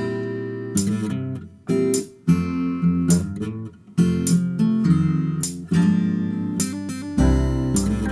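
Background music: an instrumental opening of strummed acoustic guitar chords, with a bass line coming in near the end.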